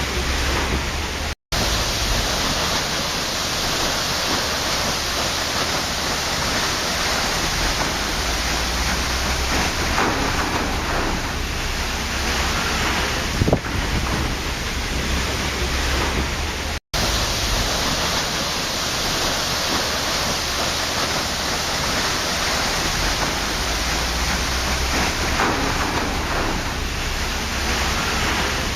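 Waterfall: a steady, dense rush of falling water, broken by a split-second dropout twice, about a second and a half in and again a little past halfway.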